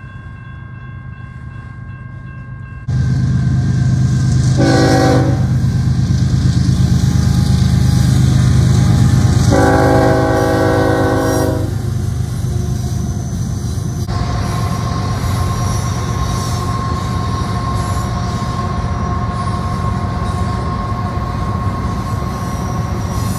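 Diesel locomotive of a double-stack container freight train passing close by, its engine rumble loud and heavy. It sounds its air horn in a short blast about five seconds in, then a longer blast about ten seconds in. The train keeps rolling past with a steady rumble.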